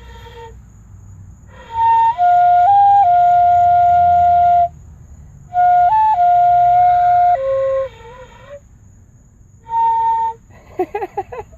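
Fife played haltingly by a beginner on a first attempt: three short phrases of clear, held notes stepping among a few pitches, one long note sustained for a couple of seconds, with gaps between phrases. Near the end comes a quick, wavering flutter of short notes.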